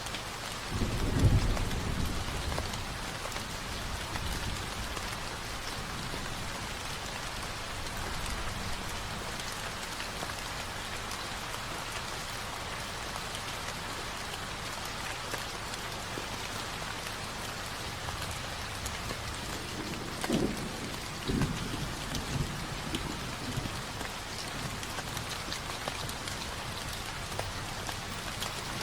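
Steady rain falling, with low rumbles of thunder about a second in and again about two-thirds of the way through.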